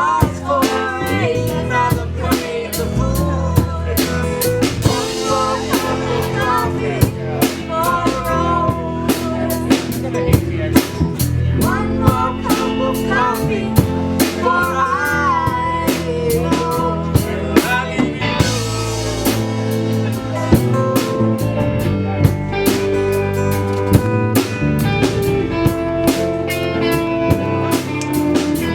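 Live rock band playing an instrumental break: drum kit with rimshots keeping a steady beat under bass, with guitar playing wavering, bending lead lines.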